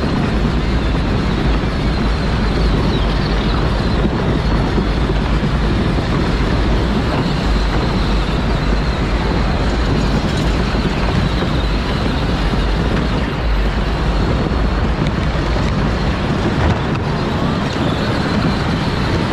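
Power Wheels ride-on toy car driving, heard from on board: a steady, loud rumble of its electric drive and wheels with a faint high whine, and heavy low buffeting on the microphone.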